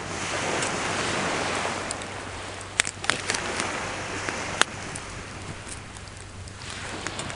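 A wave surges up the shore and washes back. Over it, a wood fire crackles, with a few sharp pops around the middle.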